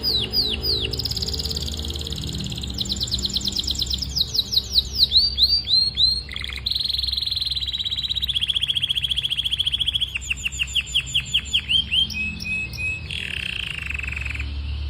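Domestic canary singing a long continuous song built of phrases of one repeated note: runs of quick downward-sweeping whistles, fast trills and rolls, switching to a new phrase every second or two.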